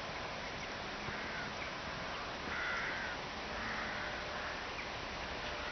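Crows cawing, about three harsh caws spread over a few seconds, faint over a steady background noise.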